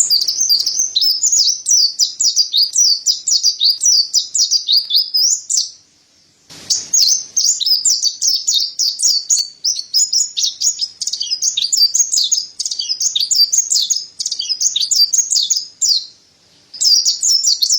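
Mountain white-eye (pleci dada putih, 'montanus') singing a fast, high-pitched twittering song in long unbroken runs, with two short pauses, one about six seconds in and one near the end.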